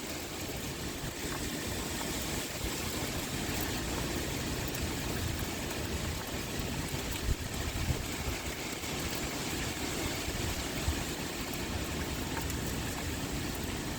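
Heavy rain pouring steadily with wind blowing and a shifting low rumble underneath.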